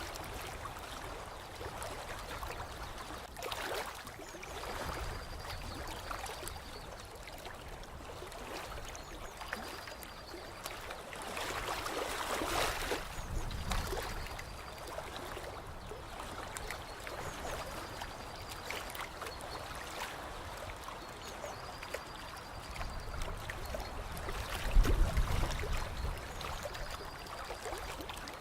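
Lake water lapping and trickling, swelling for a few seconds around the middle, with a low rumble and a louder splash-like peak near the end.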